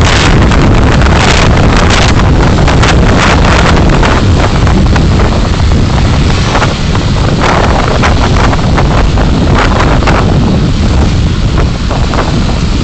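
Dashcam microphone recording a car on the move: a loud, steady rumble of road and wind noise, with many short rushes of wind buffeting the microphone.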